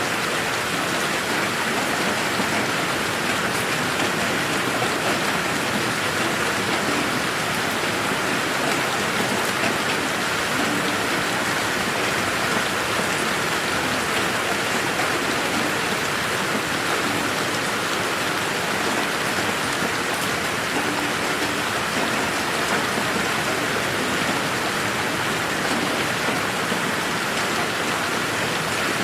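Steady rain falling on foliage and ground, a continuous even patter with no thunder.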